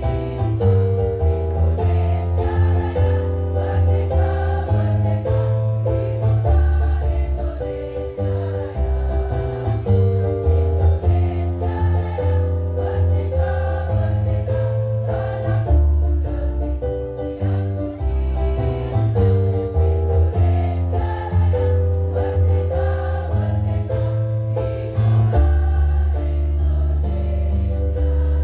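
Women's choir singing over an instrumental accompaniment, in held notes over a steady bass line.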